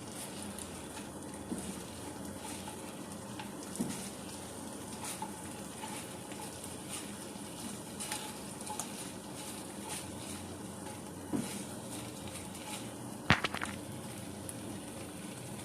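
Chicken in sauce sizzling steadily in a frying pan as it is stirred, with a spatula scraping and tapping against the pan now and then and one sharp knock on the pan near the end.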